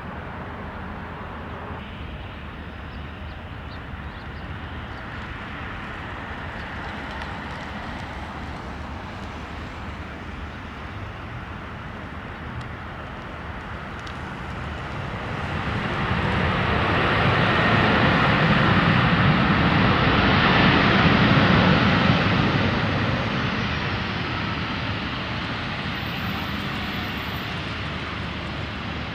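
Jet airplane passing by: its engine noise builds from about halfway in, is loudest a few seconds later, then fades away.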